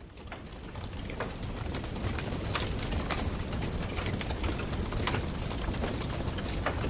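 Wood campfire crackling, with frequent sharp snaps and pops over a steady hiss; the sound swells up over the first couple of seconds.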